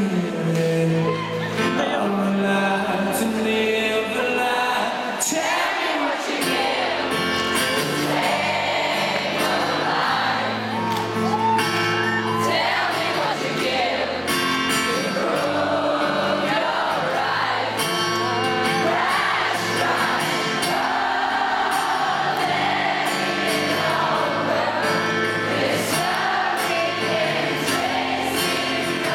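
Live rock band playing with singing, a continuous stretch of the song with sung vocals over the band.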